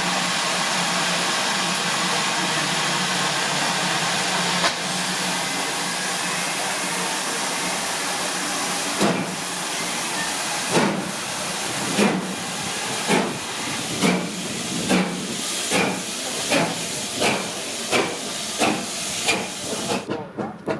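Steam locomotive hissing steadily, then starting away: from about halfway through, its exhaust chuffs begin slowly and quicken from one every second and a half or so to about two a second.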